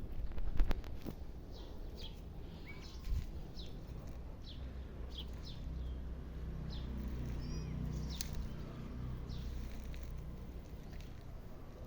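Small birds chirping repeatedly, short high falling notes about once a second, over a low outdoor rumble, with a few sharp knocks near the start.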